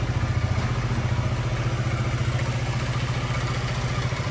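Honda ADV350 scooter's 330 cc single-cylinder four-stroke engine idling steadily, an even, fast low pulse.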